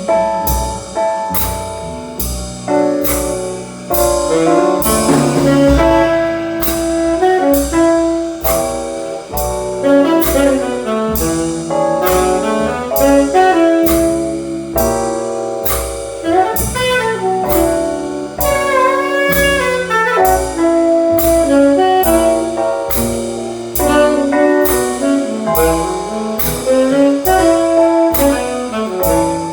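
Saxophone solo over a jazz band's accompaniment, a bending melody above piano chords and a steady beat.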